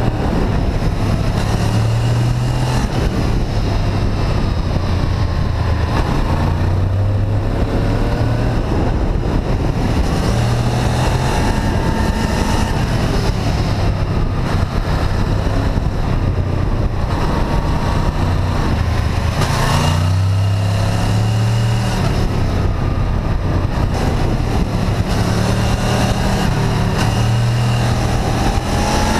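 Honda VFR800 V-TEC's V4 engine running under way, its pitch rising in glides as it pulls through the gears and dropping back between them, over a steady rush of wind and road noise.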